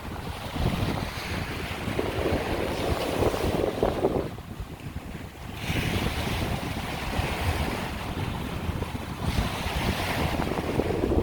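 Strong wind gusting over the microphone, with surf washing onto the beach. The wind eases briefly about four seconds in.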